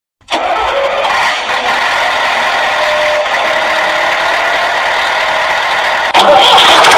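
Battery-powered toy vehicle running: a steady motor whir with rattle. It becomes louder and changes pitch about six seconds in.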